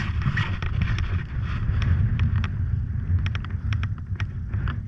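Husaberg FE 450 dirt bike's single-cylinder four-stroke engine running steadily, with wind on the camera microphone and scattered sharp clicks.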